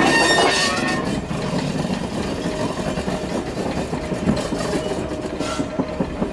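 4-CEP slam-door electric multiple unit with MLVs rolling slowly over the track: steady wheel and running-gear rumble with scattered clicks and knocks from the rail joints and rattling bodywork, heard at an open droplight window.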